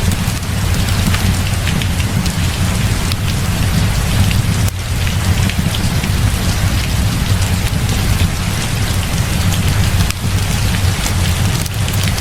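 Heavy rain pouring steadily, with a deep continuous rumble underneath and many small sharp ticks scattered through it.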